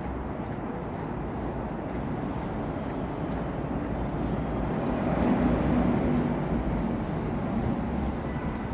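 City street traffic noise: a steady hum of vehicles, swelling as one passes close about halfway through.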